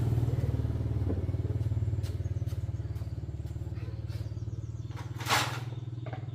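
Motorcycle engine running at a steady idle, its low even pulsing easing off slightly. A brief hissing burst about five seconds in.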